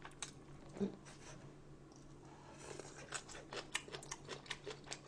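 Faint light clicks and ticks, a few a second, becoming more frequent from about halfway, over a steady low room hum.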